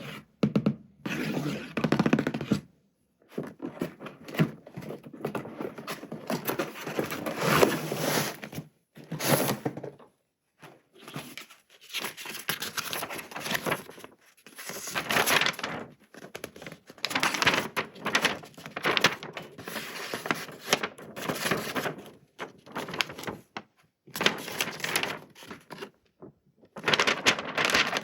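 Hands unboxing a toy: cardboard and plastic packaging handled, torn and crinkled in irregular bursts with short pauses, and occasional thunks of the box and parts being set down.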